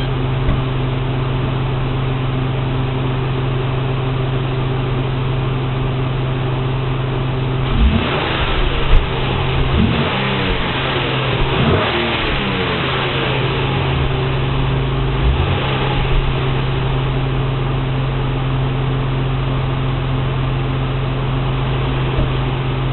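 Nissan 350Z's VQ35HR 3.5-litre V6 through its stock exhaust, idling steadily, then revved in several quick blips about a third of the way in and once more shortly after, settling back to idle.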